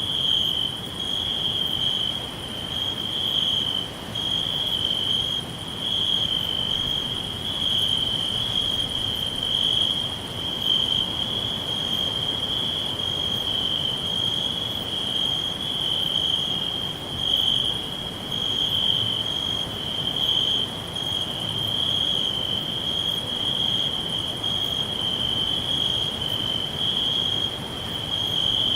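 Crickets chirring continuously in a steady high-pitched band, with a faint second pulsing insect call above it, over a low background hum of the outdoors.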